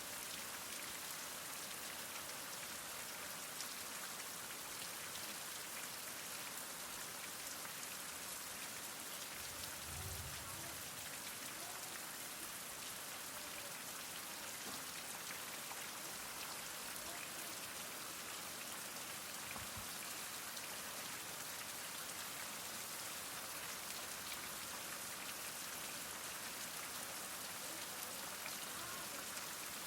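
Heavy rain falling steadily, a dense even hiss of drops. There is a soft low thud about ten seconds in and a fainter one near twenty seconds.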